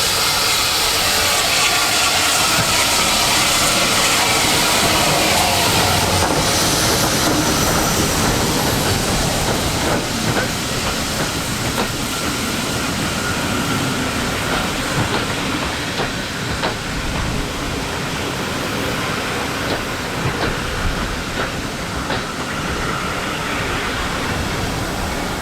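Steam train running on the line, with a strong hiss of steam in the first few seconds. Later the wheels click over the rail joints as the carriages go by, and the sound grows a little quieter.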